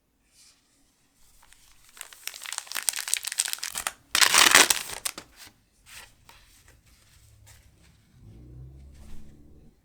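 A foil Pokémon booster pack wrapper being crinkled and torn open by hand: crinkling starts about two seconds in, and the loudest tear comes about four seconds in. Softer rustles and handling noise follow.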